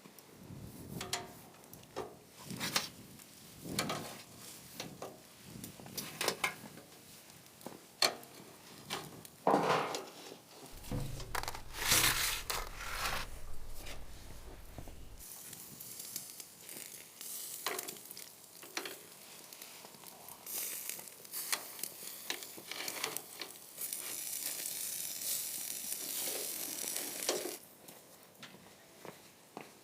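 Food-preparation handling sounds: scattered knocks and clatter of utensils and dishes. A low hum runs for a few seconds about eleven seconds in, and a steady hiss fills much of the second half, loudest shortly before the end.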